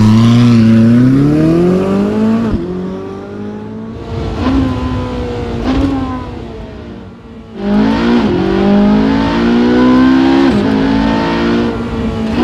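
Ferrari 458 Speciale's naturally aspirated V8 revving hard under acceleration, its pitch climbing and then dropping sharply at gear changes. It runs quieter through the middle with a couple of short rises in pitch, then pulls loud again from about seven and a half seconds in.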